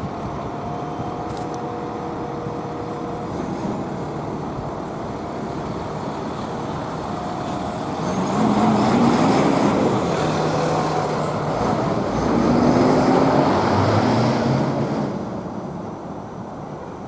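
Road traffic passing: a steady wash of vehicles, with louder, heavier vehicles going by close from about eight seconds in, their engine notes rising and falling, then easing off near the end.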